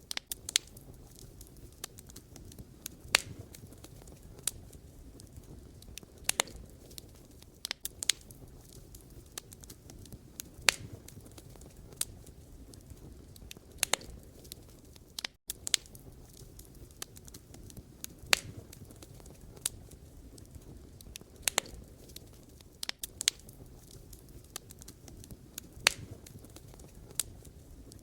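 Wood fire crackling: burning logs give irregular sharp pops and snaps over a low, steady rumble of flame.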